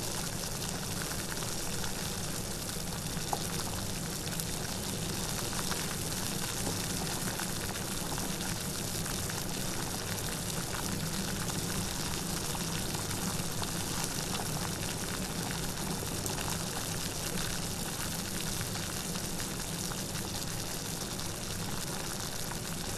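Steady rain, a dense even hiss of falling drops with no breaks.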